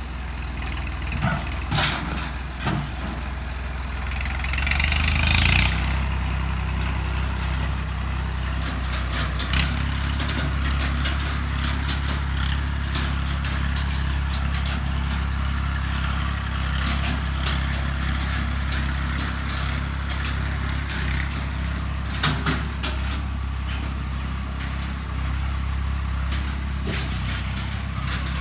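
Swaraj 855 FE tractor's three-cylinder diesel engine running steadily. About five seconds in there is a brief louder, hissy burst, and there are scattered clicks and knocks throughout.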